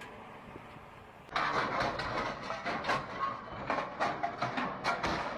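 A motor vehicle running, with a clatter of irregular knocks and rattles that starts abruptly about a second in over a faint steady hum.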